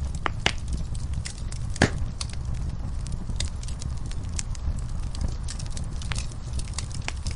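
Wood fire in a fireplace crackling: irregular sharp pops and snaps over a steady low rumble, with the loudest pop about two seconds in.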